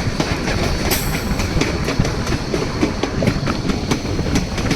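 White Pass & Yukon Route narrow-gauge train running along the track: a steady rumble with wheels clicking over the rail joints, and a brief high squeal about a second in.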